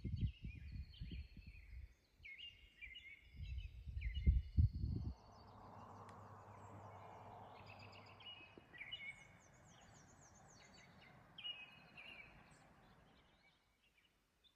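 Songbirds singing: many short whistled phrases and trills overlapping. Low rumbling bumps come through in the first five seconds, then a soft steady hiss runs under the birds and fades out near the end.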